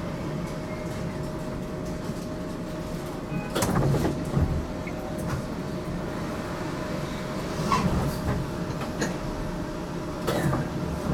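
Interior running noise of an HTM GTL8 tram under way: a steady low rumble with a faint steady tone. A few short clatters come through, a cluster about four seconds in, another near eight seconds and one near the end.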